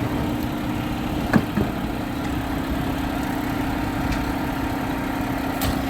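Garbage truck engine idling steadily with a low hum, with one sharp knock about a second and a half in.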